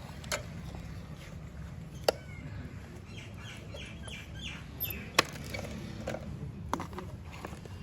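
A few sharp knocks and clicks, as of tools and parts being handled, over a steady low hum, with a quick run of short high chirps in the middle.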